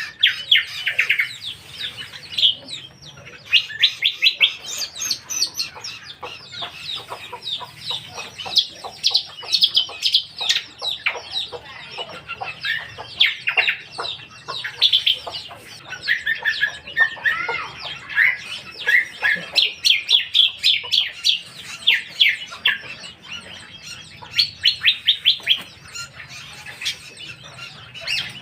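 A cucak kombo songbird singing vigorously: an almost unbroken, varied song of fast trills, rapid repeated notes and short whistled glides, in loud phrases with only brief pauses.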